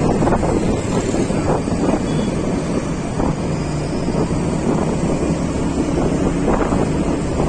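Wind rushing and buffeting against the microphone while travelling by road, over steady vehicle and road noise.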